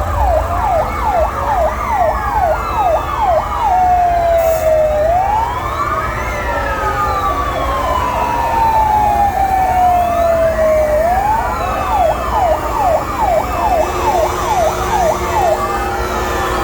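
Fire engine sirens sounding together. The loudest one switches between a fast yelp of about three sweeps a second and a slow wail that climbs in about a second and falls away over several seconds. Other sirens sweep more faintly behind it, over a steady low rumble.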